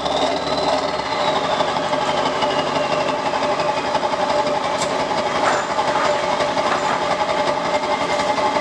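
Straight-piped 7.3 Powerstroke turbo-diesel V8 running steadily with a rapid diesel clatter, a faint high whistle falling in pitch over the first few seconds.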